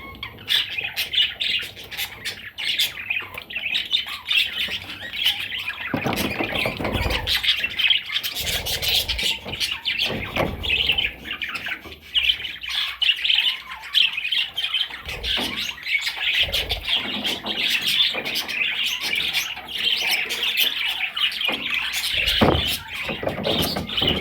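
A budgerigar warbling and chattering without a break, a busy mix of squawks, chirps and clicks, with a few dull thumps mixed in.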